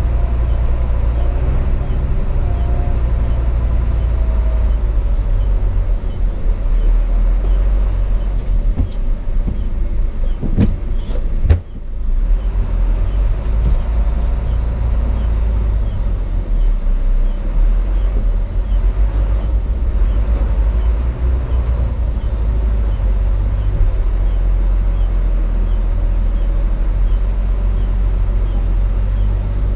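Hino FM 260 JD truck's six-cylinder diesel engine running under way, heard inside the cab as a steady low drone with road rumble. About eleven seconds in, a couple of sharp knocks come and the sound dips for a moment before the drone returns.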